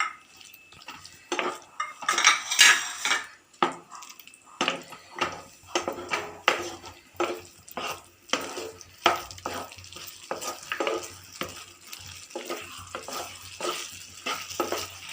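A utensil stirring and scraping in a pan, clinking against the metal at an uneven pace of about one or two strokes a second, as fried chicken pieces are tossed and coated in a thickened pineapple sauce, with a faint sizzle underneath.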